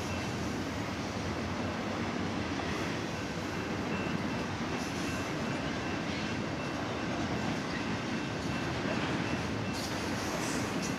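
Double-stack intermodal freight train's loaded well cars rolling past: a steady rumble of steel wheels on rail, with a faint thin high tone above it.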